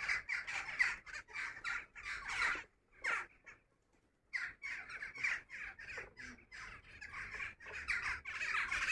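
A bird calling over and over in quick runs of short, harsh calls, with a break of about a second midway.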